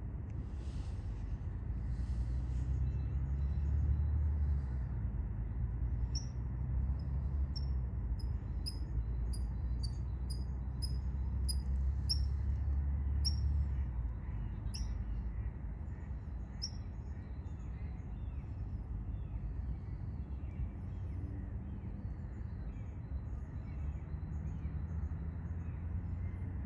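A small bird repeating short, high call notes, about two a second for some ten seconds, over a steady low rumble.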